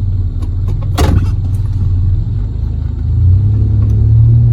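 Low, steady engine and road rumble inside a Ford Escape's cabin, growing louder about three seconds in as the car picks up speed, with one sharp knock about a second in.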